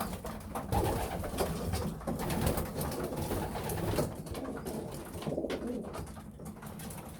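Young racing pigeons cooing in the loft, over a busy patter of small clicks and taps.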